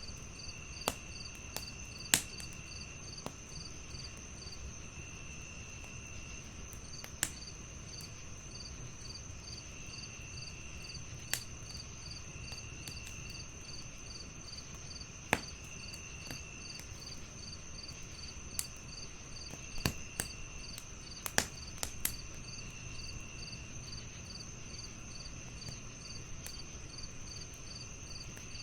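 Wood fire crackling, with a low steady rumble and irregular sharp pops and snaps, several close together a little past the middle. Crickets chirp steadily in a fast even pulse over a constant high insect drone, while another insect trills in short bursts every couple of seconds.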